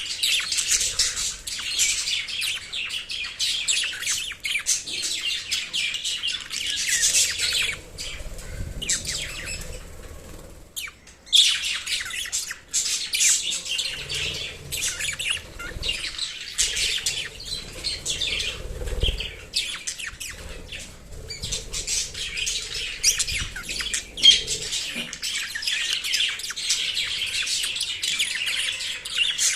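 Small pet parrots chattering and chirping continuously in dense high calls, with a brief lull about ten seconds in.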